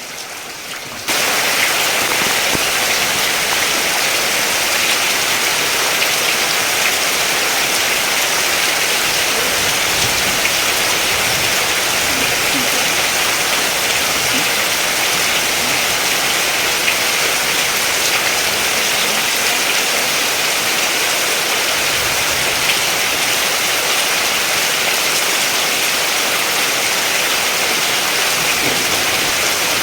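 Heavy, steady rain: a dense, even hiss of falling water that starts abruptly about a second in and then holds constant.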